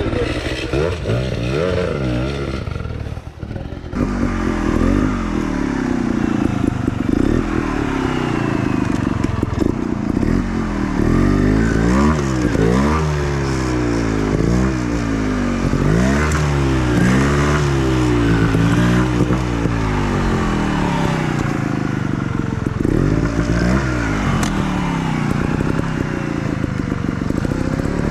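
Enduro dirt bike engine revving hard and dropping back over and over as the throttle is worked on rough ground, its pitch sweeping up and down many times in a row. It gets louder about four seconds in.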